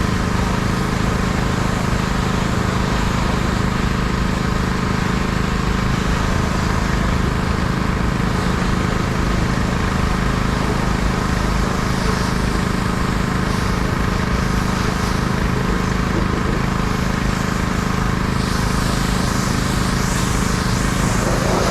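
An engine running steadily at constant speed, typical of the motor that drives a mobile pressure-washing rig, with a hiss that comes and goes in the second half.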